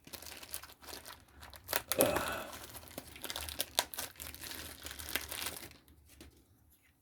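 Packaging crinkling and crackling as it is handled and opened, loudest about two seconds in, stopping about six seconds in.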